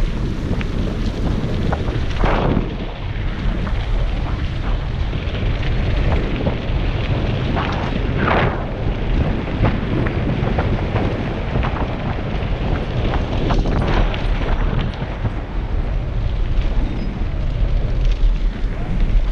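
Heavy wind buffeting the microphone of a helmet-mounted GoPro HERO5 Black on a mountain bike riding downhill, with constant small rattles and knocks from the bike and tyres on the rough road. Two brief whooshing sweeps stand out, about two and eight seconds in.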